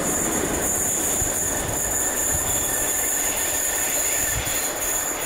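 Train hauled by Class 47 diesel locomotives running away out of sight: a steady rumble of engines and wheels on the rails, with a thin high whine over it, easing slightly near the end.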